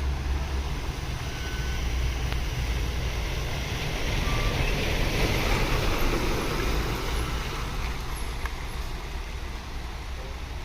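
Heavy truck's diesel engine running on a steep climb, swelling louder for a few seconds around the middle and then easing off, over a steady rain hiss.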